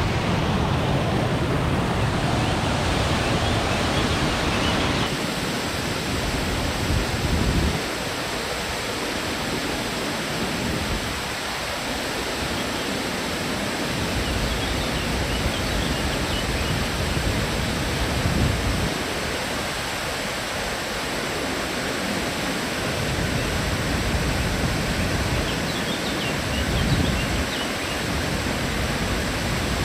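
Steady rushing of Silvertip Falls' cascading water, a dense even hiss with a low rumble that swells and fades every few seconds. The sound shifts slightly in character about five seconds in.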